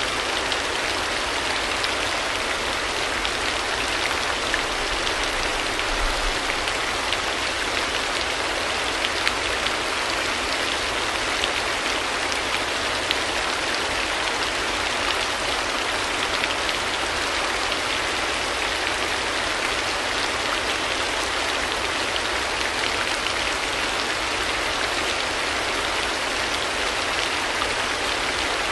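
Steady rain falling: an even hiss with faint ticks of individual drops, unchanging throughout.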